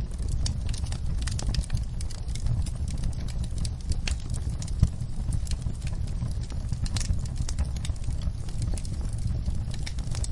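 Fire crackling: irregular pops and snaps over a steady low rumble of burning, with one louder pop about five seconds in.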